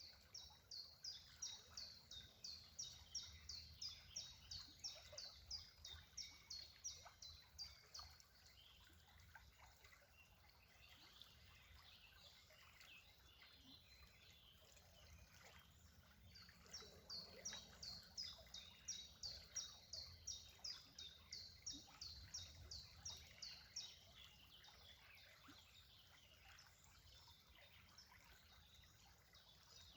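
A bird calling in two long runs of quick, high repeated notes, about three a second, the second run starting about halfway through, faint over a quiet outdoor background.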